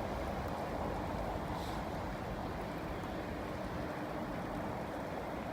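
Heavy rain falling steadily: an even hiss with a low rumble beneath.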